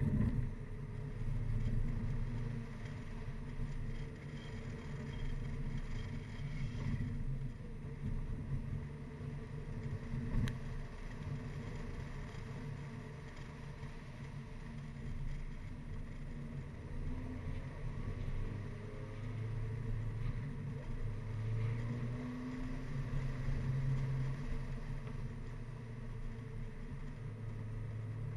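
Mini Cooper R55 Clubman being driven up a winding hill road: engine running with its pitch rising and falling as speed and gears change, over tyre and wind noise. One sharp knock about ten seconds in.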